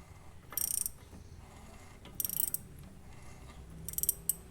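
Ratchet wrench clicking in three short bursts, about a second and a half apart.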